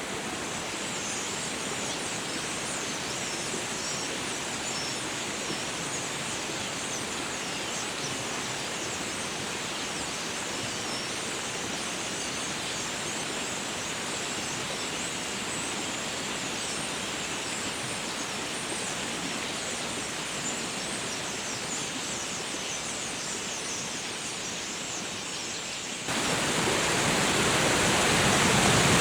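Steady rushing of the flooded Willamette River. About 26 seconds in it cuts to a louder rush that keeps swelling.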